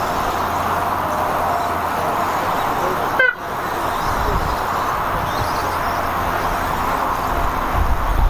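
Several radio-controlled off-road race trucks running laps together, a steady mixed whine of motors and tyres on the track, with a short rising chirp about three seconds in.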